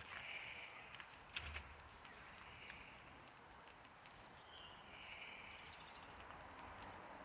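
Near silence: faint outdoor ambience with distant birds calling now and then and a couple of small clicks about a second and a half in.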